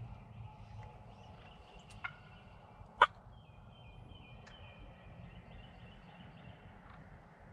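Wild turkey gobblers gobbling in the distance. A single sharp click about three seconds in is the loudest sound.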